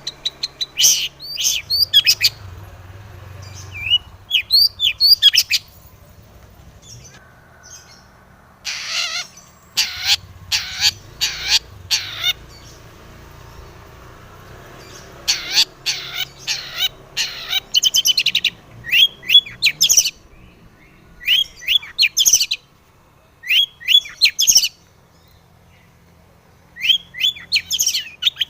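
Long-tailed shrike (cendet) singing in loud bursts of rapid, harsh chirps and short whistled notes, each burst lasting a second or two with short pauses between, typical of its varied, mimicking song.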